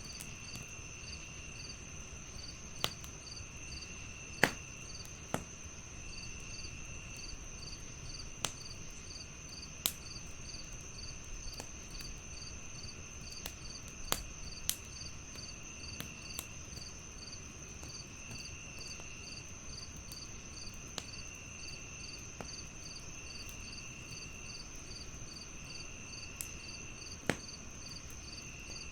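Crickets chirping evenly over a steady high insect tone, with a lower trill coming and going in bursts of about a second. A wood fire crackles over them with sharp, irregular pops, the loudest about four seconds in.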